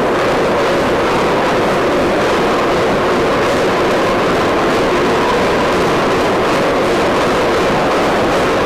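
Aircraft carrier's anchor chain paying out through the hawsepipe: a loud, steady, unbroken rattling rush of heavy chain running out.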